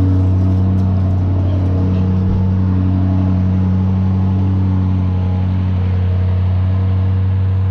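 Lamborghini Urus twin-turbo V8 idling with a steady hum.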